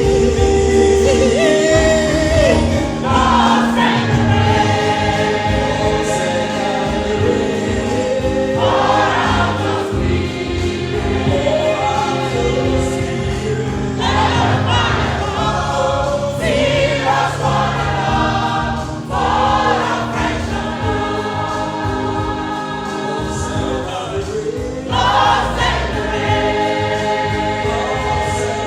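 SATB choir singing a gospel hymn in four-part harmony, with held chords that change every few seconds.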